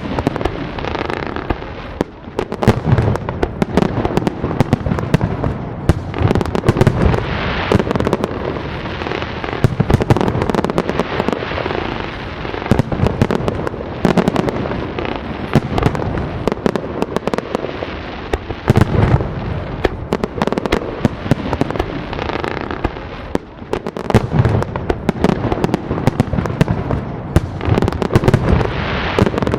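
A firework display going off without a break: many sharp bangs and crackles over a steady rumble of low booms.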